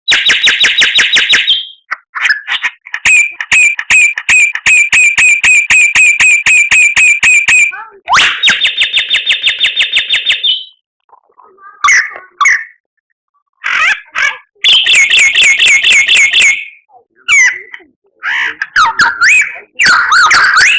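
White-rumped shama (murai batu) singing in loud phrases broken by short pauses: long runs of quickly repeated sharp notes, about five a second, a fast rattling run, and varied whistled notes near the end.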